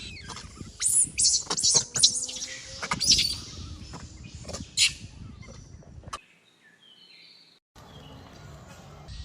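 A run of short, high-pitched chirping calls in quick succession, followed by a near-silent break about six seconds in and then faint background noise.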